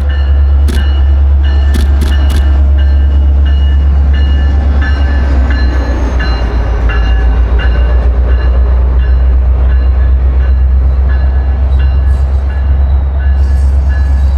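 New Mexico Rail Runner commuter train passing close by: a loud, steady low rumble with a few sharp clicks of wheels over the rails in the first couple of seconds.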